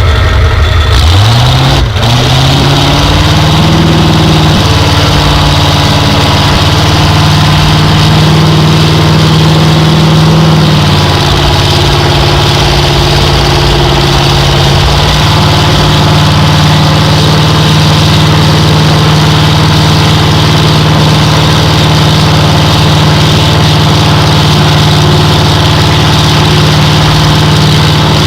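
Competition pulling tractor's engine, very loud, revving up over about three seconds and then held at high revs. The pitch dips slightly about ten seconds in and then holds steady.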